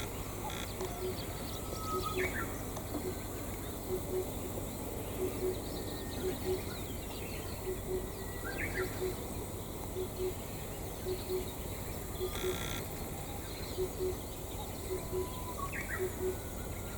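Steady outdoor background noise with a few brief bird chirps, and a soft low pulse repeating in pairs throughout.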